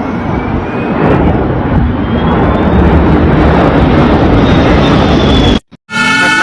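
A large plane's engines passing low overhead: a loud, dense engine noise that swells over several seconds with a faint rising whine, then cuts off abruptly about five and a half seconds in. A siren starts just after.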